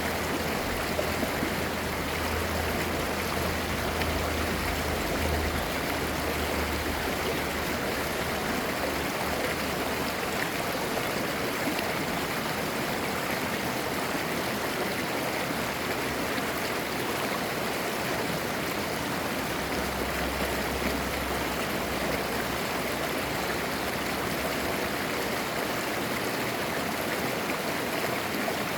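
Valley mountain stream flowing, a steady babbling rush of clear water.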